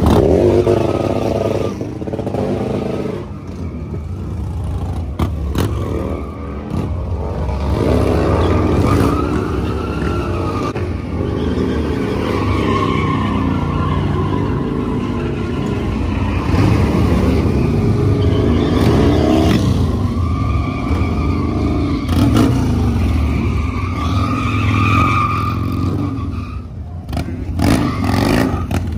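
Motorcycle engines running loudly and revving, the pitch rising and falling repeatedly.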